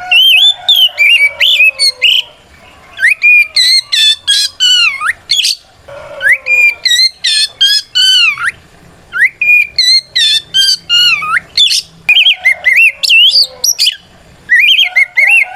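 Oriental magpie-robin (kacer) singing loudly and at full voice. It gives rapid phrases of clear, whistled notes that sweep up and down, with short pauses between phrases. This is the male's challenging song, calling out a rival.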